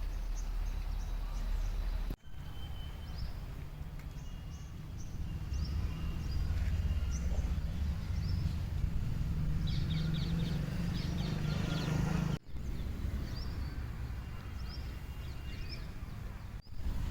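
Outdoor ambience: small birds chirping in short, repeated calls over a steady low rumble. The sound drops out briefly three times, about two seconds in, at around twelve seconds and near the end.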